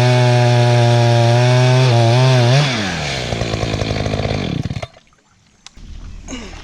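Two-stroke chainsaw running flat out. About two and a half seconds in, the throttle is released and it falls to a lower, uneven idle. It stops abruptly just before five seconds.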